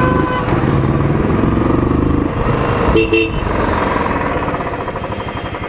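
Royal Enfield single-cylinder motorcycle engine running as the bike is ridden through traffic. A vehicle horn honks briefly about three seconds in.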